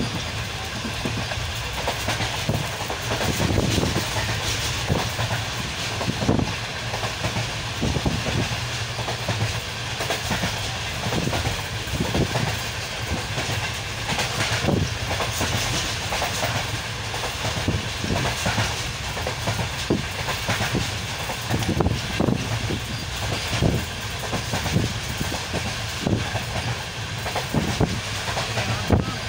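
Passenger train running at speed, heard from a carriage window: a steady rumble and rush of air, with the wheels clacking over rail joints again and again at uneven intervals.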